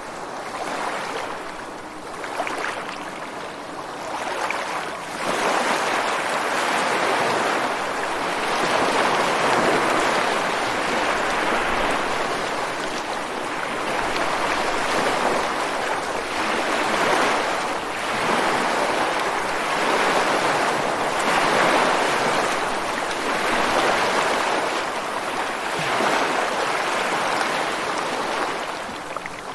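Ocean surf: waves breaking and washing against rocks and sand in a continuous rush that swells and eases every few seconds, growing louder about five seconds in.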